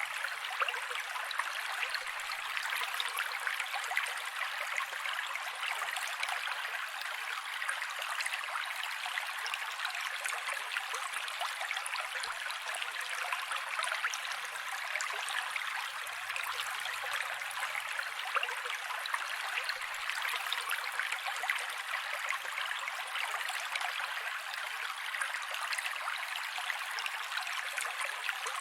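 Mountain creek running over rocks: a steady, bright rush of splashing and trickling water with almost no low rumble.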